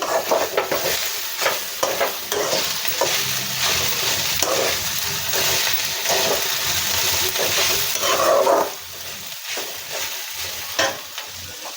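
A spoon stirring and scraping grated coconut and spices frying in a pan on low flame, with a steady sizzle and repeated scraping strokes; it grows softer near the end.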